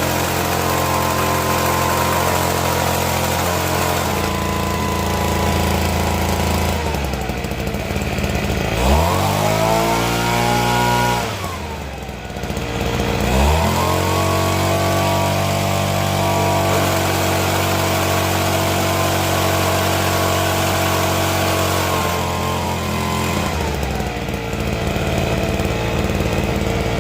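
Kawasaki Giken SV-110W tea harvester's small engine running while being throttled: it slows about seven seconds in, is revved up sharply and let fall, then revs up again and holds at high speed before slowing near the end.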